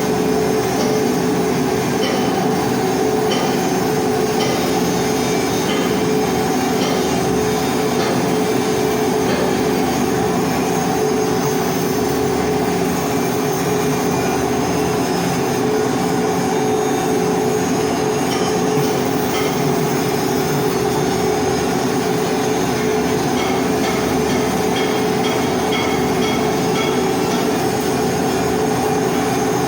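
Continuous arc-welding noise from hardfacing a pipe: an unbroken steady hum with a hiss over it.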